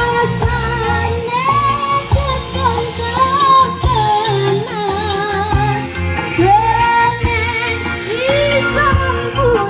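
Music with a woman singing, played loud through a hajatan sound system, with a heavy bass beating in a steady rhythm beneath the gliding vocal line.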